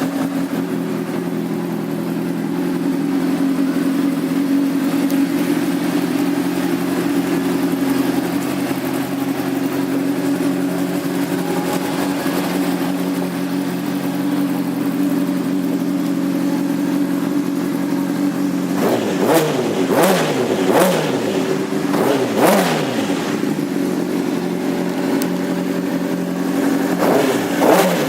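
2006 Honda CBR600RR's inline-four engine with a Jardine aftermarket exhaust idling steadily, then revved in several quick throttle blips, the pitch sweeping up and falling back each time. The blips come in a cluster about 19 s in and again near the end. It is a healthy, good-running engine.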